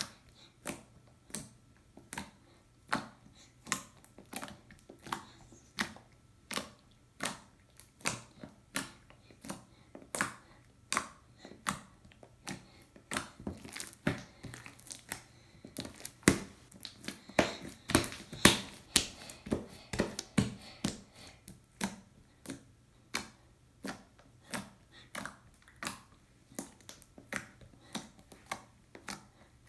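Stretchy slime being squished, poked and folded by hand for ASMR: a steady run of sharp clicks and pops, about two or three a second, coming thicker and louder in the middle stretch.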